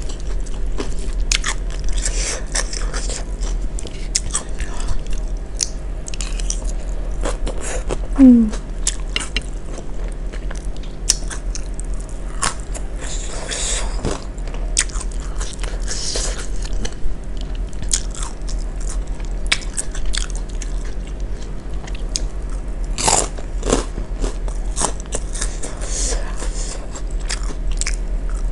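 Close-up chewing and crunching of a raw vegetable salad (cabbage, bean sprouts, carrot, lettuce) with crackers: many small wet crunches and bites, continuous throughout.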